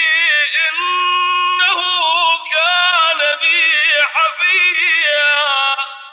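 A man's voice reciting the Quran in a melodic, ornamented chant, holding long wavering notes that ripple up and down in pitch. The voice trails off and fades out at the very end.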